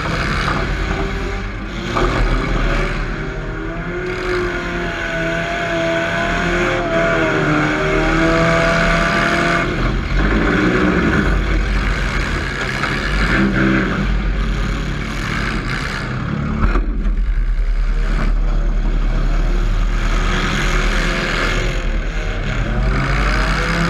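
Demolition derby car engine revving hard, its pitch rising and falling as it accelerates and backs off, with engine noise throughout. A single sharp bang about 17 seconds in.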